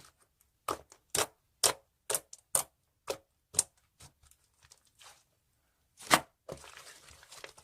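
A run of short, sharp clicks, about two a second, then a few fainter ones and a single louder click about six seconds in.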